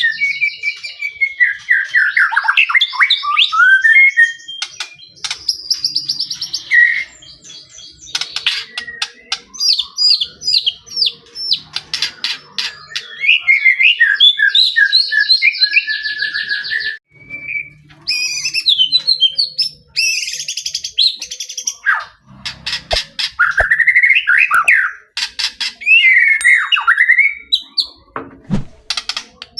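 White-rumped shama in full song: a loud, near-continuous run of varied whistles, fast trills and sharp clicking notes, with a couple of brief pauses.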